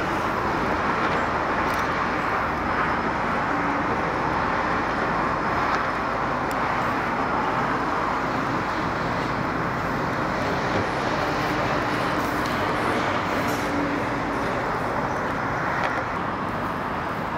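Steady rumble of an AMT commuter train of bilevel coaches rolling away over the tracks, with a faint steady hum partway through.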